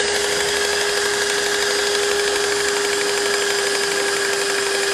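Electric motor running at steady speed with a constant whine.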